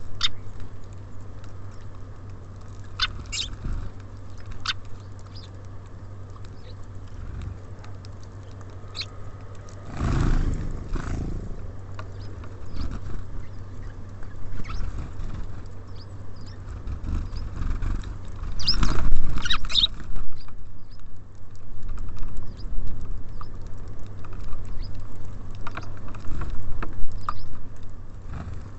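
Small songbirds at a bird feeder: scattered short high chirps and pecking clicks, with louder scuffling bursts about ten seconds in and again near nineteen seconds, over a low steady hum.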